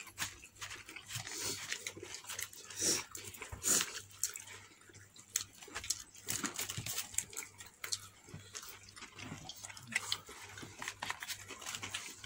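Close-up eating sounds: chewing with many short, irregular wet mouth clicks and lip smacks.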